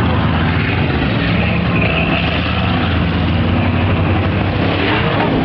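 Tuff-truck racing pickup's engine running loud and fairly steady, a deep rumble with a wide hiss of noise over it.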